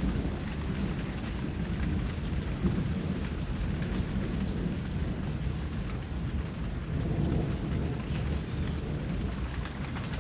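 Steady rainfall with a low rolling rumble of thunder underneath, the rumble swelling again about seven seconds in.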